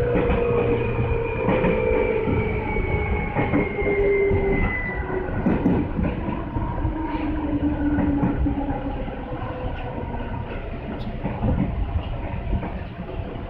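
Seibu 2000 series electric train running on rails, with the whine of its traction motors slowly falling in pitch as the train slows. Wheel clicks over rail joints are scattered through it.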